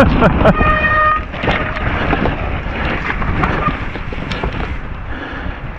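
Mountain bike descending a wet trail, heard from a GoPro on the rider: wind buffeting the microphone over the hum of the tyres, with many sharp rattles and knocks from the bike over rough ground. A brief high squeal comes in the first second.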